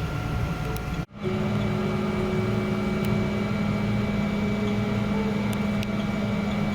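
Steady mechanical drone and hum. It breaks off abruptly for an instant about a second in, then carries on with a constant low tone.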